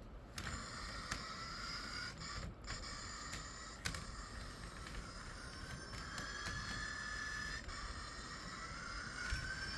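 Model train running on a layout: a faint electric motor whine that rises in pitch a couple of times, with scattered sharp clicks from the wheels and track.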